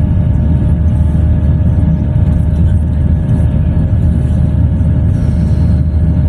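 Aircraft engines running during the take-off climb: a loud, steady low rumble with a faint steady hum above it.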